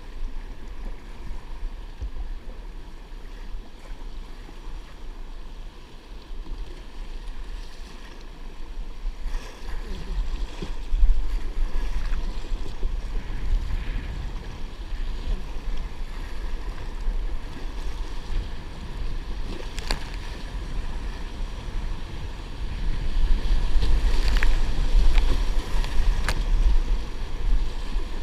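Wind rumbling on the microphone over the wash of open water, swelling in gusts about a third of the way in and again near the end, with a few light knocks.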